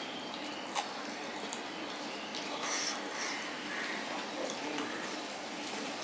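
Close-up eating sounds: chewing and wet mouth smacks as fried hilsa fish and rice are eaten by hand, with fingers picking food off a steel plate and a brief click about a second in.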